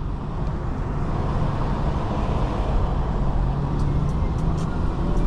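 Steady cabin noise of a BMW G30 540i driving on a wet road: tyre and road noise with a low, even engine hum.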